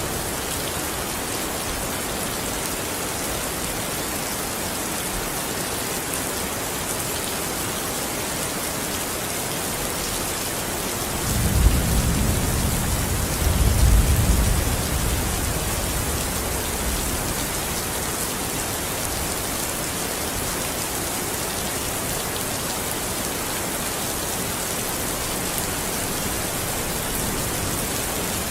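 Steady rain falling, with a roll of thunder rumbling low about halfway through, peaking twice and fading over a few seconds.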